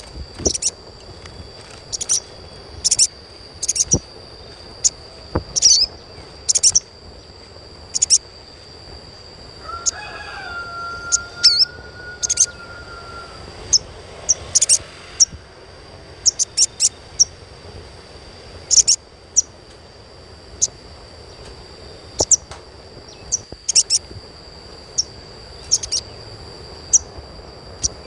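Sogon bird (sogok ontong) giving short, sharp, high chirps at irregular intervals over a steady high tone. A lower drawn-out call, like a distant rooster crowing, comes about ten seconds in.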